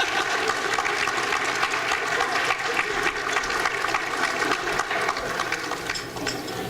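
A crowd applauding, a dense, steady clapping that eases off near the end.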